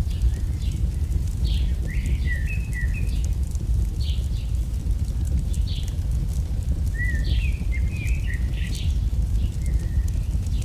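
AI-generated campfire ambience: fire crackling over a steady low rumble, with small birds chirping in short scattered calls, busiest around two seconds in and again around seven to nine seconds in.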